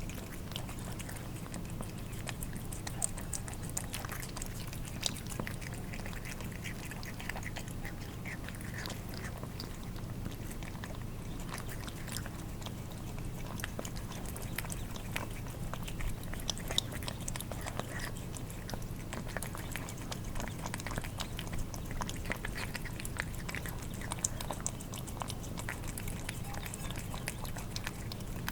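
Cats eating wet food: a steady run of small, wet smacking, licking and chewing clicks. A faint steady low hum sits underneath.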